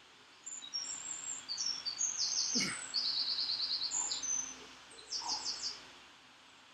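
A songbird singing: a string of quick high chirps and fast trills of rapidly repeated notes, loudest around the middle. A brief sharp sound about two and a half seconds in.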